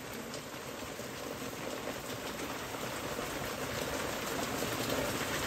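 Torrential rain pouring down, a steady hiss of heavy rain on the ground and surfaces, slowly growing louder.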